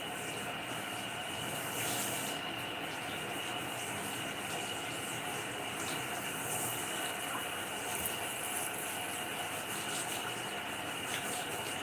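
Running water from a shower sprayer, a steady hiss as a dog is rinsed in the bathtub.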